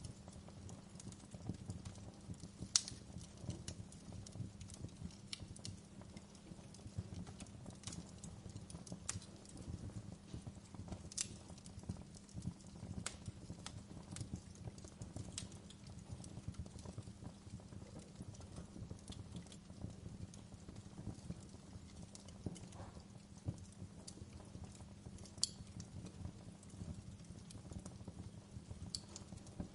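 Fireplace fire crackling: irregular sharp pops and snaps over a steady low rumble, with one louder pop about three seconds in.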